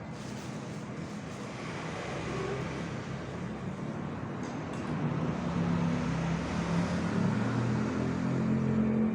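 A motor vehicle engine running, its low hum growing louder over the second half.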